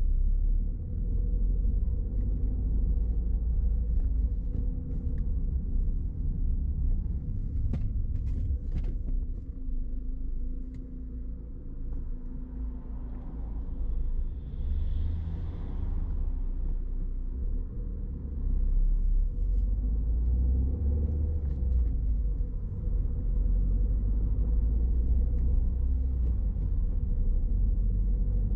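Car driving along a road: a steady low rumble of engine and tyres, with a few sharp clicks about eight seconds in.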